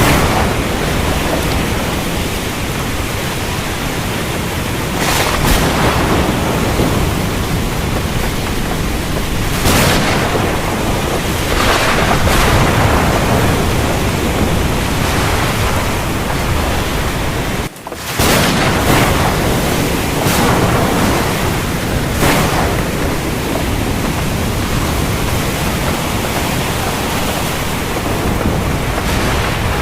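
Heavy rain falling in a steady, dense roar, with short louder surges every few seconds. The sound drops out for an instant about two-thirds of the way through.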